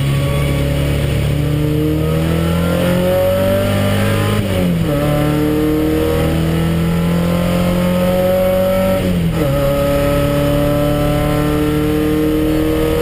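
Porsche 944 race car's four-cylinder engine accelerating hard, heard from inside the cockpit. The pitch climbs steadily, drops sharply with an upshift about a third of the way in, climbs again, and drops with a second upshift about two-thirds of the way through.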